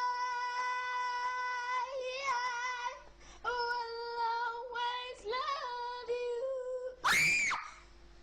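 A high-pitched voice sings long, steadily held notes, a few of them wavering. Near the end it gives one loud cry that rises and falls in pitch.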